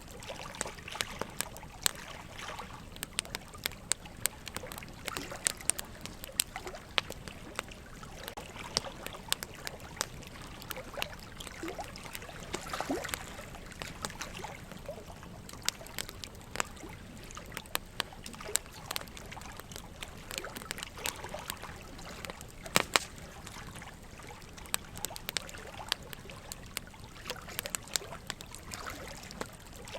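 Wood fire crackling, with frequent sharp irregular crackles and pops over a steady trickle of running water.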